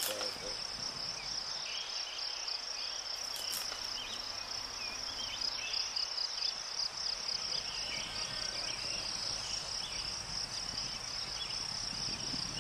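Insects trilling in a steady high chorus, a continuous fine pulsing chirr.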